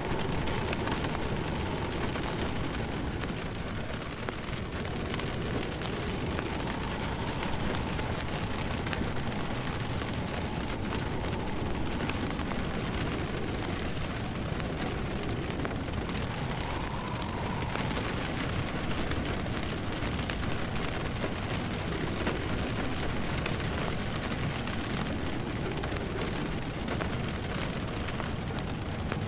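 Steady rain falling on a surface, mixed with the crackle of a wood fire burning in a fireplace.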